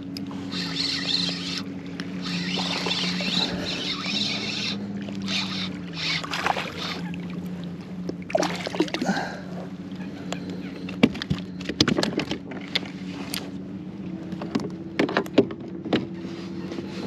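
A low, steady motor hum that shifts pitch twice, with scattered knocks and splashy clicks in the second half.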